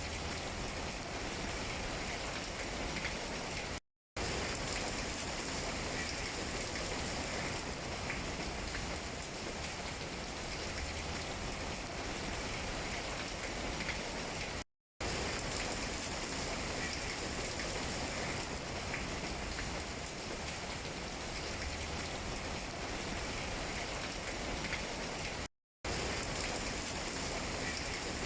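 Steady rain falling on tree leaves, a dense even patter. It drops out to silence for a split second three times, about eleven seconds apart.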